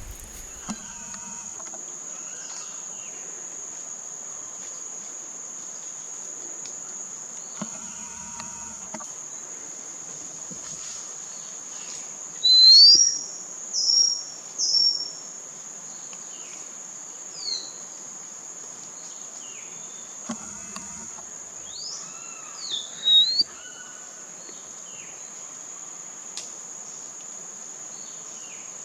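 A steady, high-pitched drone of insects runs throughout, with a bird giving short, loud chirps: a quick run of about four about a third of the way through, and a few more around two-thirds of the way.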